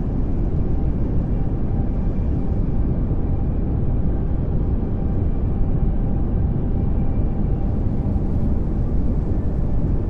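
Steady pink noise: an even, unbroken hiss and rumble, strongest in the low end, with a few faint steady tones in it.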